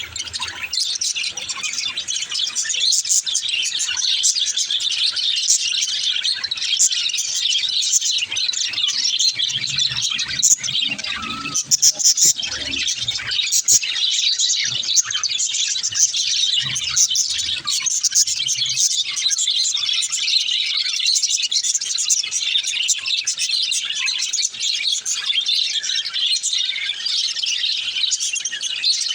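Many small birds chirping and twittering over one another without a break, a dense continuous chatter like a flock of cage birds.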